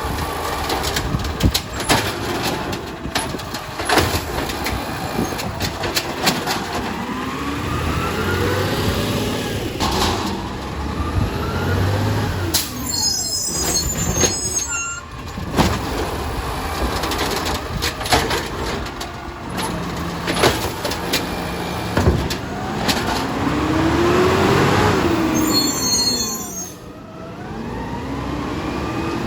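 Garbage truck at work: its diesel engine revs up and down again and again while metal clanks and bangs ring out, with short air-brake hisses about midway and near the end.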